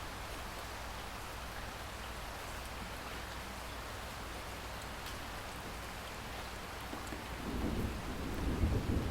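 Steady rain falling, with a low rumble of thunder swelling in near the end.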